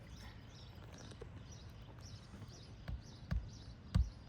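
Hammer knocking on an asphalt-shingle roof during a shingle repair: three dull thumps near the end, after a few seconds of quiet working noise.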